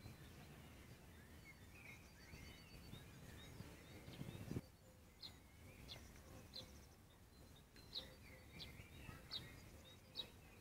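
Near silence with faint birdsong: small birds chirping, with a short high chirp repeated about once a second in the second half, over a low outdoor rumble that fades about halfway through.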